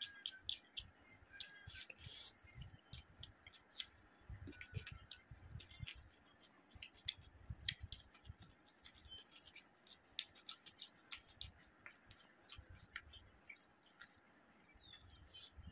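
Faint, close-miked eating sounds: wet mouth clicks and smacks of chewing, many short sharp ticks scattered throughout, with soft thuds of fingers working rice on the plate.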